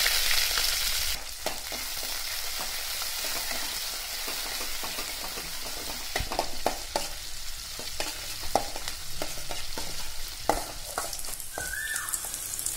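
Shallots and fresh curry leaves sizzling in hot oil in a stainless steel kadai. The sizzle is loudest in about the first second, just after the leaves go in, and then settles. From about halfway through, a steel spatula stirs and scrapes the pan with many sharp clicks against the metal.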